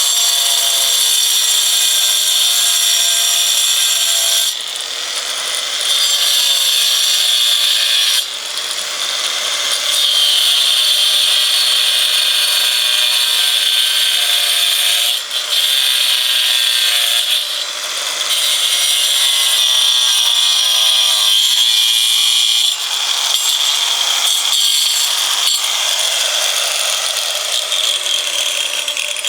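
An electric power tool cutting into wood with a steady high whine that shifts in pitch as it bites, in several stretches broken by cuts.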